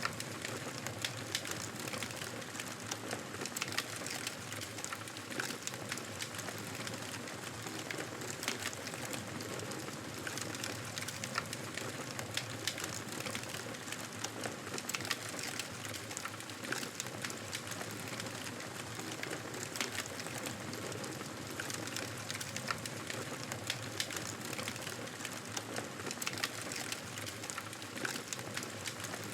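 Wood fire burning in a fireplace: a steady hiss and rustle of flames with frequent small, sharp crackles and pops throughout.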